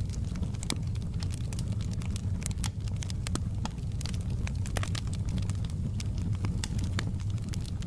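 Campfire burning: wood crackling and popping in many sharp, irregular snaps over a steady low rumble of the flames.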